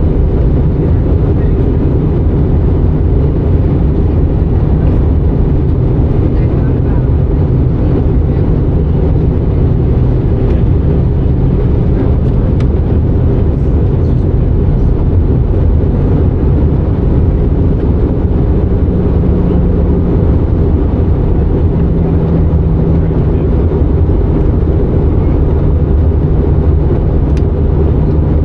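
Steady cabin noise inside an Airbus A319 in flight: a deep rumble of engines and airflow with a faint, even hum over it.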